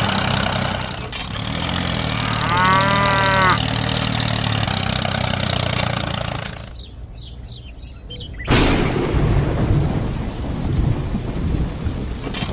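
A small engine running steadily, with a short arched tone over it a couple of seconds in, fades out about six seconds in. About two seconds later a sudden loud rumbling noise starts and goes on.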